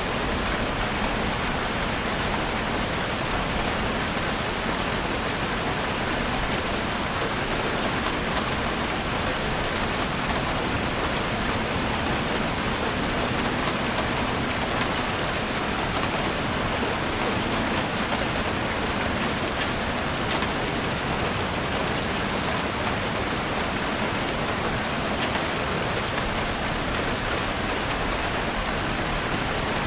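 Heavy rain falling steadily on a roof: a dense, even hiss with many small, sharp drop ticks scattered through it.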